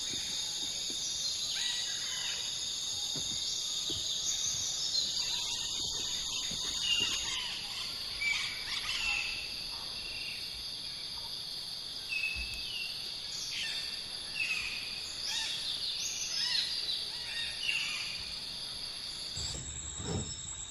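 Rainforest insect chorus: a steady, high-pitched, layered drone, with scattered short chirping calls over it.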